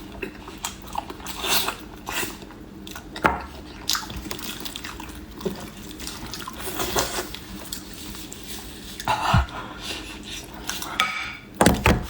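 Wet chewing and smacking while eating fatty pork knuckle: irregular soft clicks and squelches, with a few louder smacks about three quarters of the way in and again near the end.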